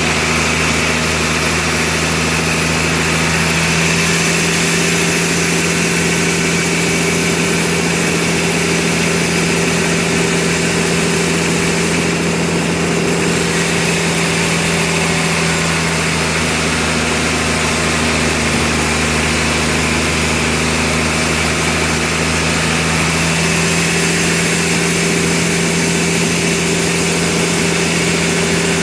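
Sawmill machinery running steadily with a constant engine-like hum and a hiss above it.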